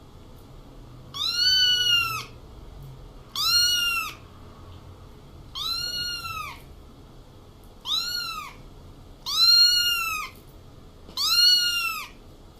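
A cat meowing repeatedly: six drawn-out meows about two seconds apart, each rising and then falling in pitch.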